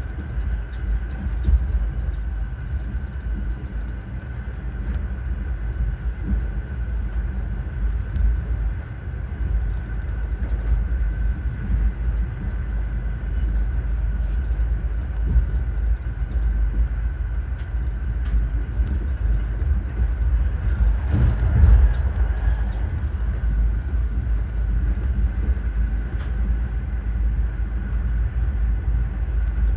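Train running along the track: a steady low rumble with a constant high whine and scattered light clicks, and a louder clatter about 21 seconds in.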